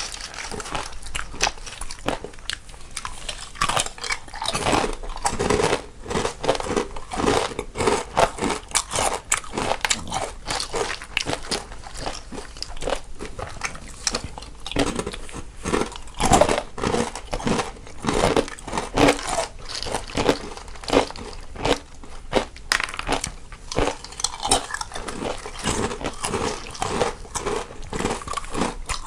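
Two people eating crunchy snacks, one in the left channel and one in the right: a dense, irregular run of crunching bites and chewing.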